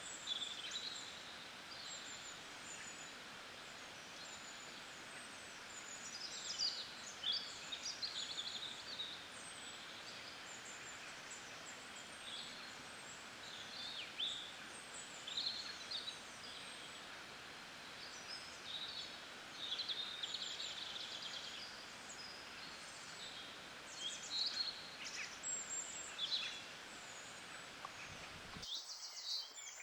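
Birds chirping and singing in short bursts over a steady outdoor hiss. Near the end the low hiss cuts off suddenly while the birdsong goes on.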